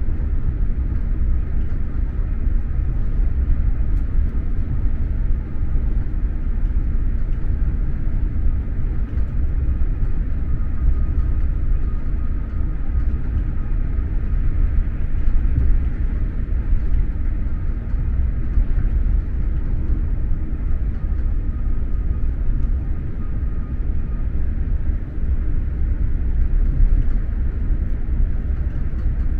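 Steady low rumble of an X2000 high-speed train running at speed, heard from inside the passenger car, with a faint thin tone in the middle part.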